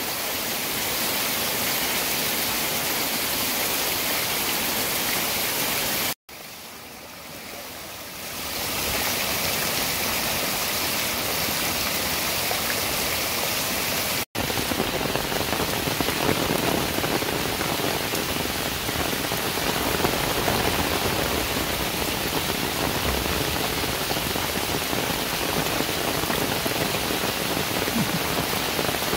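Heavy rain falling in a steady hiss, splashing onto flooded ground and streaming off a roof edge. The sound cuts out for a moment about six seconds in, comes back quieter and builds back up over the next two seconds, then drops out again for an instant around the middle.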